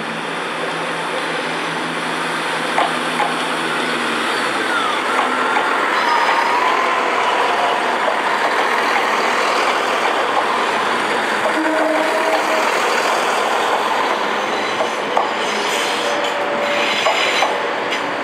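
Train running through the station: a steady rumble with a few sharp clicks of wheels over rail joints, and a thin wavering squeal about five seconds in.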